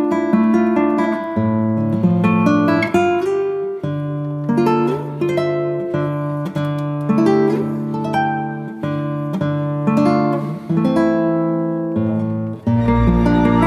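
Background music of plucked acoustic guitar playing a melody of quickly fading notes. About a second before the end, the music changes to a fuller piece with sustained notes.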